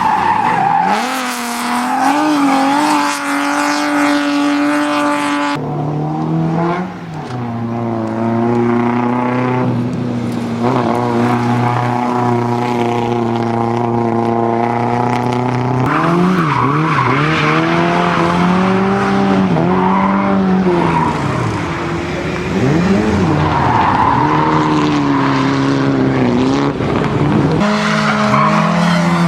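Car engine driven hard, its pitch rising and falling with throttle and gear changes. The sound changes abruptly about six seconds in and again near the end.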